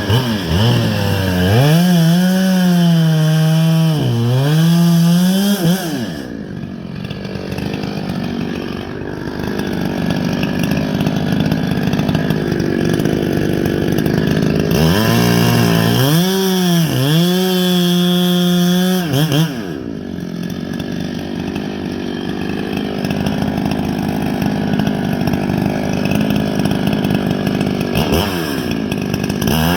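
Ported Husqvarna 359 two-stroke chainsaw with a decked cylinder at full throttle. It revs freely with two brief dips, then pulls down into a cut through a pine log. About 15 seconds in it revs free again, and about 20 seconds in it goes into a second cut.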